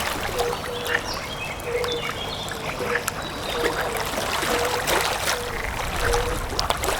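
Water flowing and trickling, with small splashes and drips, under a low pulsed call that repeats about twice a second. A few brief high chirps come in the first two seconds.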